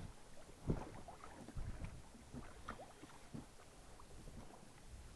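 Small waves slapping and knocking against the hull of a small fishing boat as it rocks in the wind, with irregular low thumps and a few faint creaks. The loudest thump comes just under a second in.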